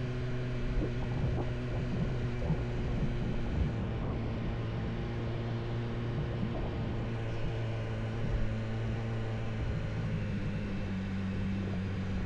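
Vehicle engine running steadily under load, a continuous drone whose pitch steps up about ten seconds in as the revs rise.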